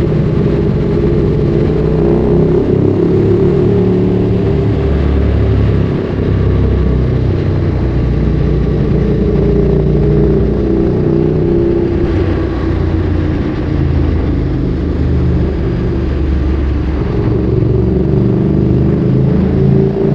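Ducati Streetfighter 848's V-twin engine through a Termignoni exhaust, running while the bike is ridden, its note rising and falling in steps as the throttle and gears change.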